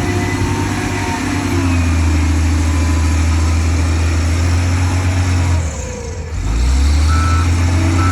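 Heavy diesel engine running loud and steady, easing off briefly about six seconds in, then picking up again.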